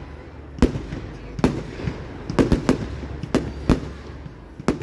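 Fireworks display: sharp bangs going off at irregular intervals, about eight in under five seconds, some in quick runs of two or three.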